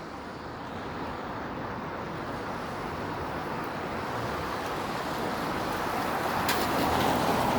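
Road traffic on a wet city street: tyre hiss that grows steadily louder as a vehicle comes closer.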